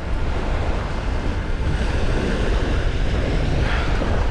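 Sea waves washing steadily onto the beach, with wind rumbling on the microphone.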